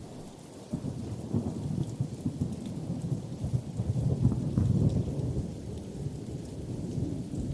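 Thunderstorm: low rolling thunder that swells about four seconds in and then eases, over a steady patter of rain.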